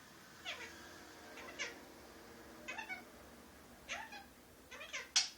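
Indian ringneck parrot making a string of about six short calls, each a quick sweep in pitch, with the sharpest and loudest one near the end.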